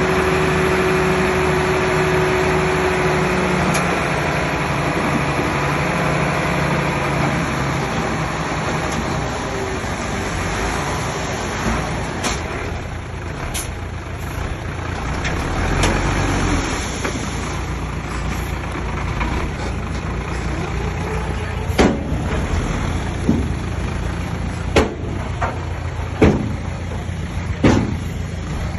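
Komatsu D20P bulldozer's diesel engine running hard, easing off after about ten seconds. Near the end, sharp knocks come about every second and a half over the engine sound.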